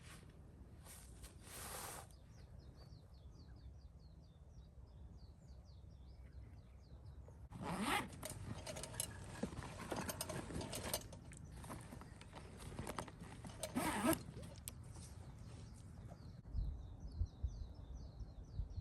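A zipper pulled in a few strokes: a short pull near the start, a longer rasping run in the middle, and another short pull later.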